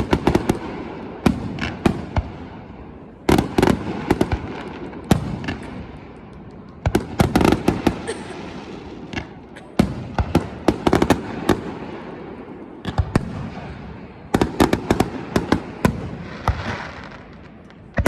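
Aerial fireworks bursting: clusters of sharp booms and crackling reports every few seconds, each trailing off in a rumbling echo.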